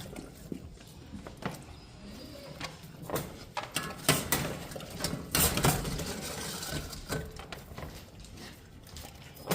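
Large mastiff dog eating raw food: irregular wet smacks, crunches and clicks of chewing and licking, the loudest about four and five and a half seconds in.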